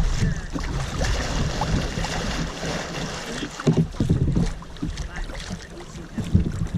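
Rushing water around a tandem kayak running river rapids, with wind rumbling on the microphone. A few sharp thumps stand out about four seconds in and again near the end.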